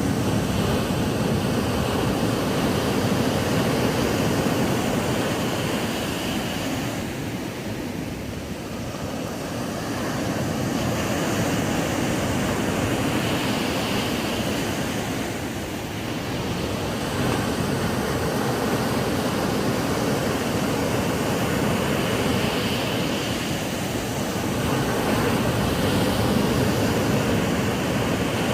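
Ocean waves breaking on a sandy beach: a continuous wash of surf that swells and eases every several seconds.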